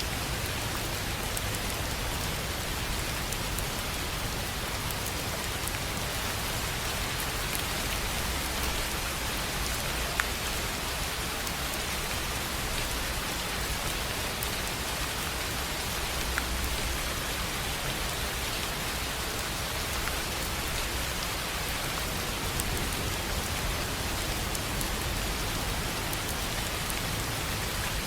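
Steady rain falling on a tin roof: a dense, even hiss with scattered individual drop ticks, and one sharper tick about ten seconds in.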